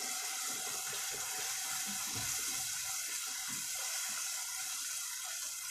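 Spiced masala with mashed potato sizzling steadily in a pot, a continuous hiss with soft scattered bubbling and stirring sounds from a silicone spatula.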